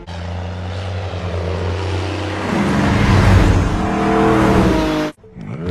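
Car engines running with a steady low hum, then revving up with rising pitch from about two and a half seconds in, led by a yellow Chevrolet Camaro driving past. The sound cuts off suddenly near the end.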